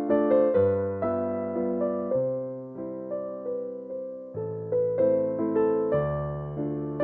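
Background music: an electric piano playing a slow melody over chords and a bass line, its notes struck and then fading.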